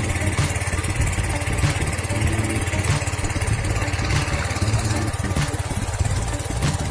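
An engine running steadily, with a faint tick about every second.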